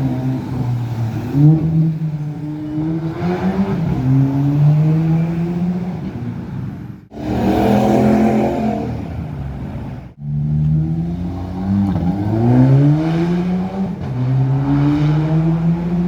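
Car engines accelerating hard, each rising in pitch through a gear and dropping back at the upshift, several times over. The sound breaks off abruptly twice, at about seven and at about ten seconds, and picks up again on another accelerating engine.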